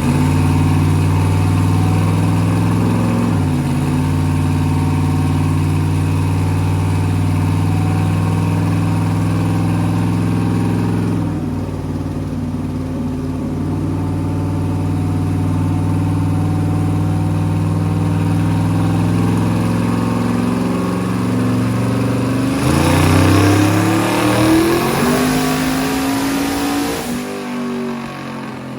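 Twin-turbocharged 370 ci LS V8 in a Chevrolet square-body pickup running steadily on a chassis dyno, then a full-throttle pull near the end: the engine note climbs for about four seconds with a loud rush of noise before dropping back off.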